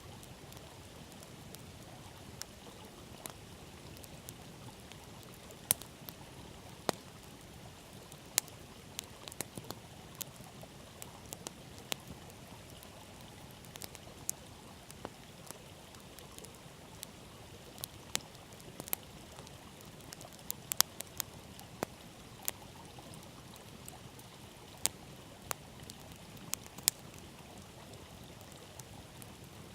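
Wood campfire crackling, with sharp, irregular pops over the steady rush of a flowing river.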